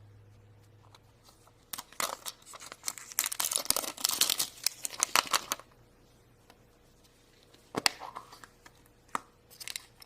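Packaging of a Disney Princess heart surprise toy being torn open and crinkled by hand. A dense run of tearing and crackling lasts about three and a half seconds, then after a pause there is one sharp click and some lighter crinkling near the end.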